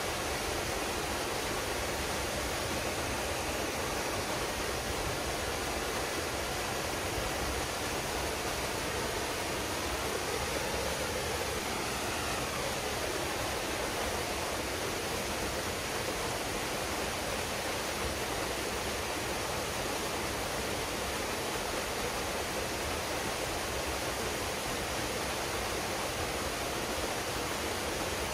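Waterfall pouring steadily into a rock pool, a constant rushing of falling water.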